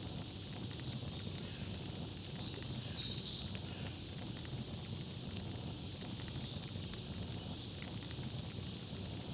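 Campfire crackling: a steady low rush of burning wood with many small sharp crackles scattered through it, and two louder pops, one a little past a third of the way in and one just past the middle.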